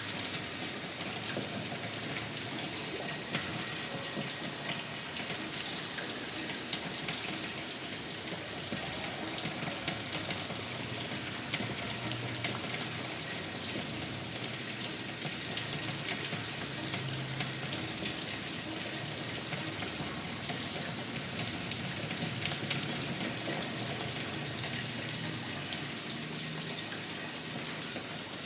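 Steady rain falling, a dense patter of many drops with no break.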